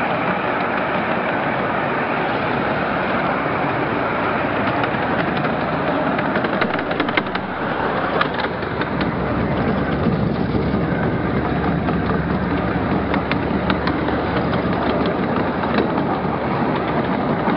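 Small 12-inch gauge riding train rolling along the track: a steady rumble and clatter of the cars' wheels on the rails, with scattered sharp clicks from about the middle on.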